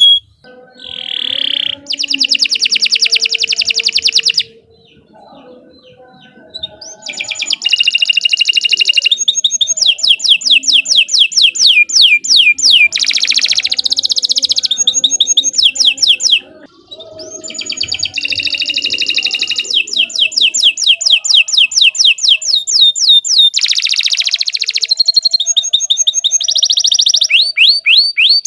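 Domestic canary singing long, rapid trills of fast repeated high notes. The song drops to a soft passage about four seconds in and comes back in full trills about seven seconds in.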